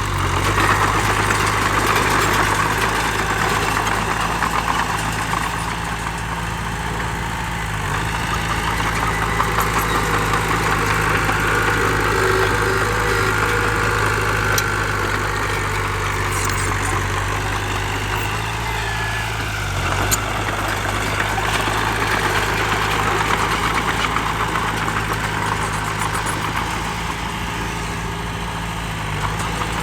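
Heavy diesel earthmoving machinery, a dump truck or bulldozer, running steadily at a constant engine speed, with a brief break in the sound a few times.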